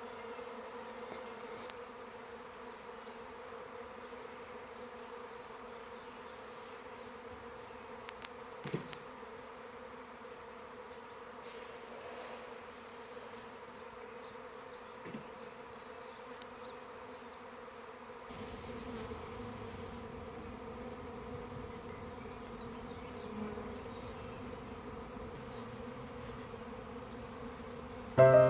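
A honeybee swarm buzzing: a steady drone of many bees in flight. A short knock sounds about nine seconds in, and a faint low rumble joins past the middle.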